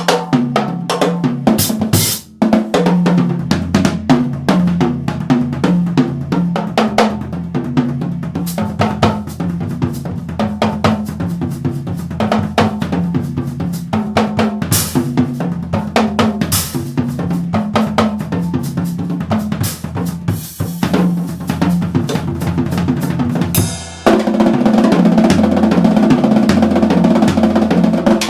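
Yamaha drum kit played continuously: quick snare, tom and bass-drum strokes with cymbals. About four-fifths of the way through it opens into a louder, continuous wash of cymbals over the drums.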